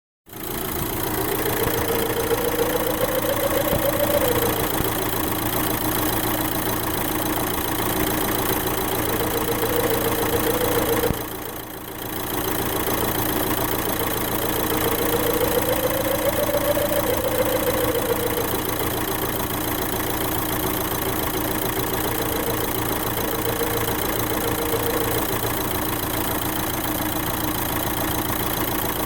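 Opel Astra 1.7 CDTI four-cylinder turbodiesel idling steadily, with a tone in its note that slowly rises and falls in pitch several times. The sound briefly drops in level about eleven seconds in.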